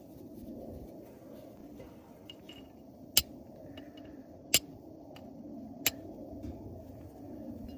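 Steel striker hitting a flint three times, each a sharp metallic click about 1.3 seconds apart, as sparks are struck to light tinder.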